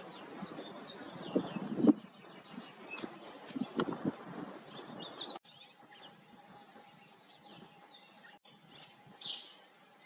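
Small songbirds chirping in short high notes, over irregular knocks and thumps that are loudest about two seconds in. About five seconds in the sound cuts to a quieter stretch with a faint steady hum and a few more chirps.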